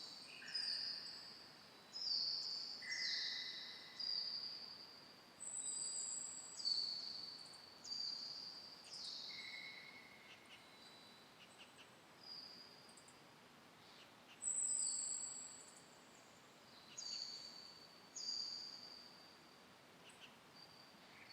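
Birds calling in the forest: short high whistled notes, many sliding down and then holding, about one a second and sometimes overlapping, over a faint steady background hiss.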